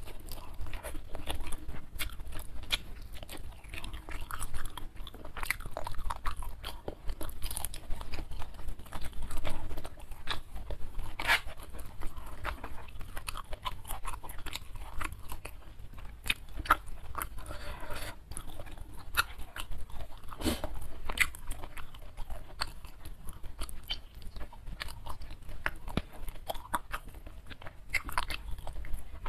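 Close-miked mouth sounds of eating crispy smashed fried chicken wing with rice by hand: continuous wet chewing with many sharp crunches and clicks.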